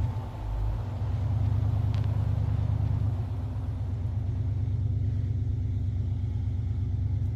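A vehicle engine running at low speed, a steady deep rumble with a fast even pulse, a little louder for the first few seconds.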